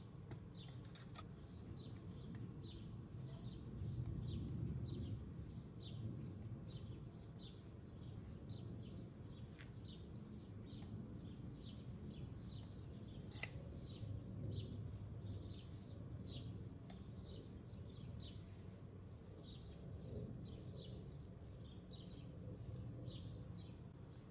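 A small bird chirping over and over, short high chirps about once or twice a second, over a faint low steady rumble of outdoor background noise.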